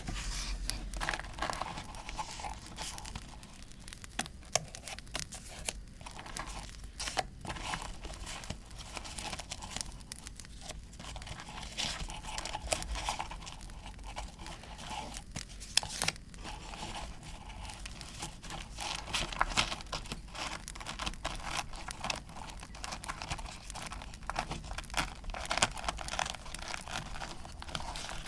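Paper being handled for scrapbooking, torn and crinkled in irregular rustles, over the continuous crackle of a campfire sound.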